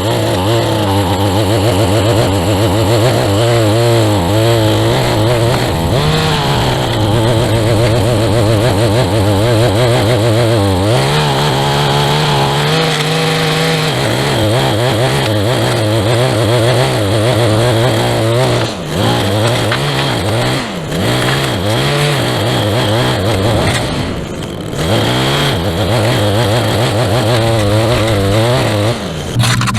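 Small gas engine of a handheld lawn tool, such as a string trimmer or edger, running steadily at working speed while clearing the sidewalk edge. Its pitch steps up for a few seconds about a third of the way in, and it briefly dips in speed twice later.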